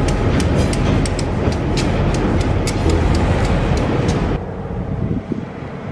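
Freight train rolling past at close range: a steady rumble with wheels clicking over rail joints about three times a second. It cuts off suddenly about four seconds in, leaving a quieter outdoor hiss.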